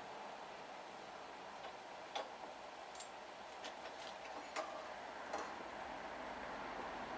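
A handful of faint, sharp clicks at irregular intervals, about six in all, over a steady low hiss.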